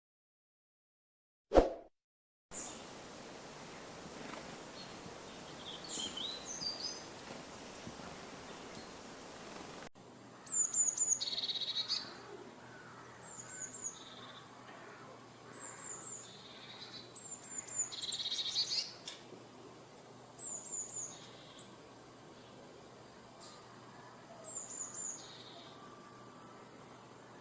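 Small songbirds (gelatik) calling outdoors. Quick groups of short, very high chirps come every couple of seconds, mixed with lower, fuller trilled phrases, over a light hiss. A single sharp click sounds near the start.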